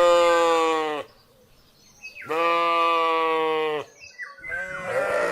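Sheep bleating: two long, steady baas with a short silence between them, then a third, rougher bleat starting near the end.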